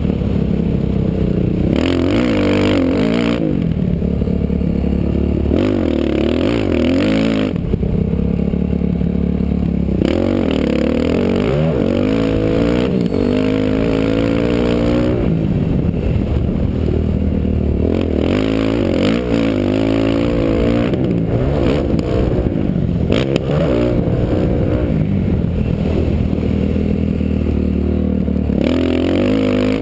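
Motocross dirt bike engine revving up and falling off again and again as it is ridden around a track, heard close up from the rider's helmet camera.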